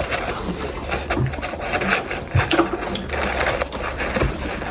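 Irregular rustling, small clicks and a few light knocks from people eating and handling their food.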